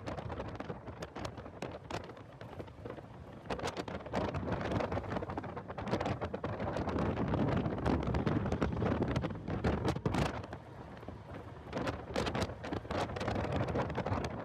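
Heavy wind buffeting on the microphone of a car at speed on a race track: a dense rumble that swells and eases, louder in the middle, with frequent sharp crackles.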